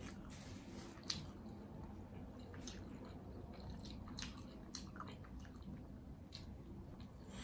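Close-miked chewing of a pretzel-bun cheeseburger: soft wet squishes with scattered short mouth clicks, the sharpest about a second in.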